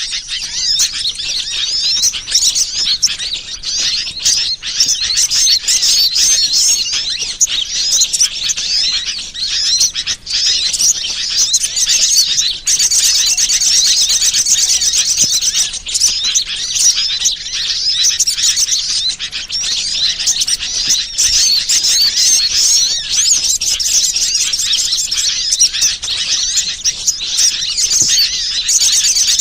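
Bird-lure recording (suara pikat): dense, rapid high-pitched chirping and twittering of many small birds, overlapping without a break.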